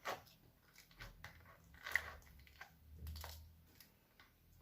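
Slime being squeezed and worked by hand, making an irregular scatter of small clicks and pops, the sharpest about two seconds in.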